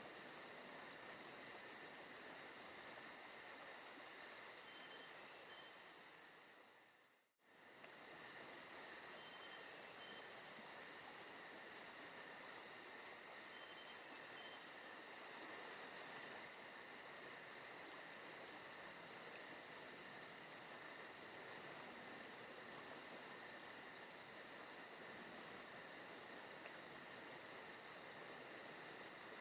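Forest night ambience of crickets and other insects chirring steadily in a dense, even chorus, with a few faint short high notes. About seven seconds in, the chorus fades out and comes straight back.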